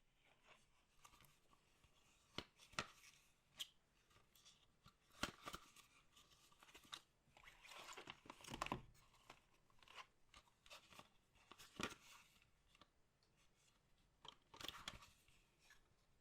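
Faint handling of a trading-card box's packaging: plastic wrap and cardboard crinkling and tearing, with irregular sharp clicks and short crackly bursts.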